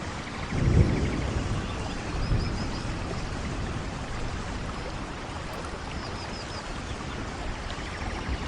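Steady rainfall with a brief low rumble about a second in, and a few faint high chirps twice.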